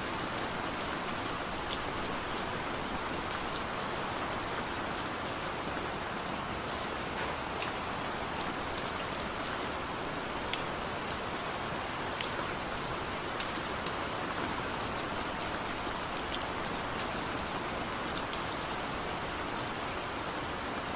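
Steady rain falling, a dense even hiss with many individual drops ticking sharply through it.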